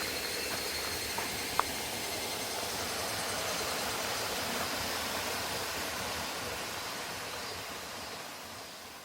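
Rushing water, a steady even rush with a sharp click about one and a half seconds in, fading out over the last couple of seconds.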